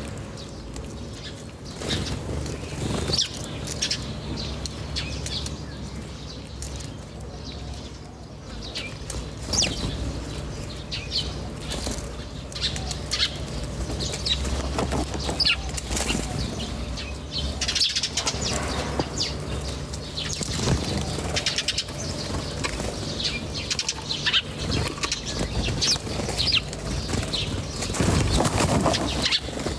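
Small birds chirping in short, repeated high notes, with bursts of wing flapping every several seconds. A steady low hum runs underneath.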